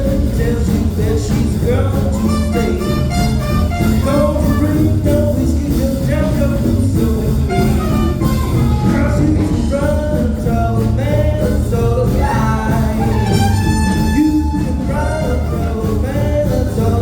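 Live jazz band playing a tune, with melody lines over bass and a steady rhythm.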